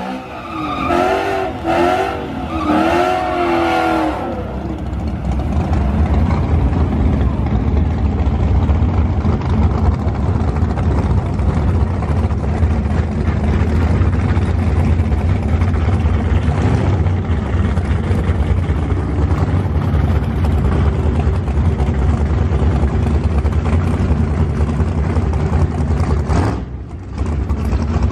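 2017 Ford Mustang GT's 5.0-litre V8 running loud with a steady low rumble through a burnout, as the rear tyres spin in the burnout box. The level drops briefly near the end, then the engine picks up again.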